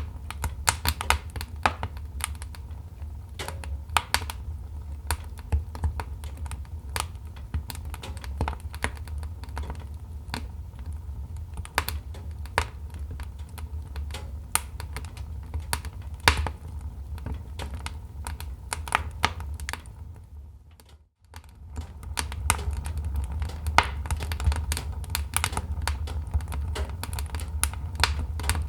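Wood fire crackling and popping: irregular sharp snaps over a steady low rumble of the burning fire. About two-thirds of the way through it fades out for under a second and comes straight back.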